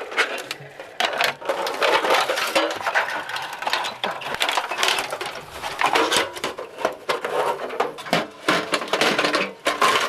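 A dense, irregular run of clattering and clinking, like camping gear and metal parts being handled.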